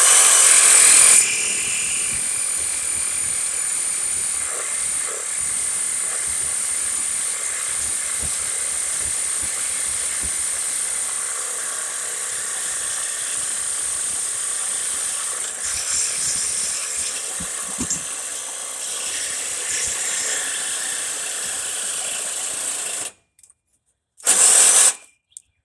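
Cordless power tool cutting through an exhaust flange bolt, running steadily with a high whine, loudest for its first second. It stops about 23 seconds in, then gives one short burst near the end.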